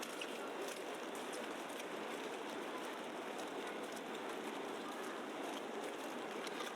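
Steady patter of wet snow and sleet falling on surfaces, like rain, with faint scattered ticks of drops over an even hiss.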